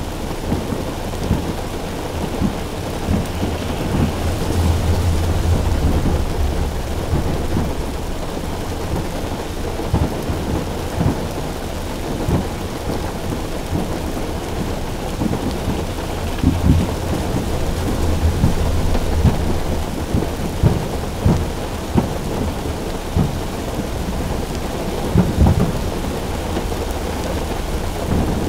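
Heavy rain pattering steadily on a car roof, with long low rumbles and scattered sharp low booms from distant fireworks bursts and thunder, the strongest booms near the end.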